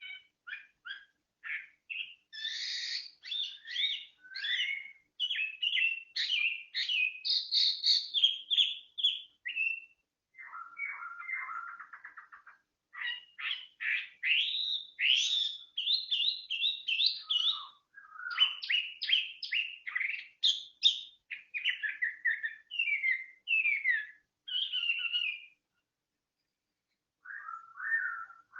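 A songbird singing a long, varied song of quick chirps and whistled notes, in fast runs broken by brief pauses and a longer pause near the end.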